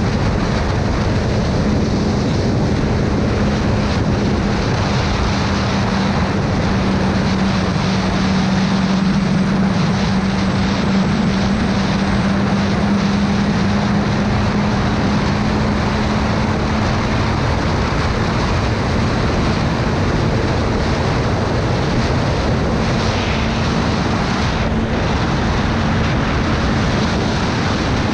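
Motorcycle riding at a steady cruising speed: the engine holds a constant low hum under loud, even wind rush over the microphone.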